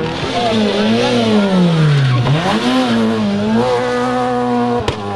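Rally car engine revving out of sight, its pitch falling and climbing several times as the revs drop and build again, then holding steadier, with a single sharp crack near the end.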